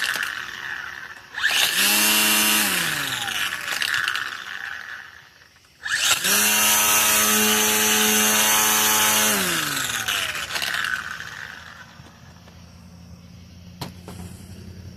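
Worx Nitro 40-volt cordless string trimmer run up twice. Each time its electric motor spins up fast to a high steady whine with the rush of the spinning line, then coasts down in falling pitch. The first run is short, about a second at full speed, and the second holds about three seconds. A single click comes near the end.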